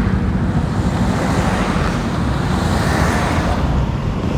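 Road traffic running past, mixed with steady wind noise on the microphone while cycling.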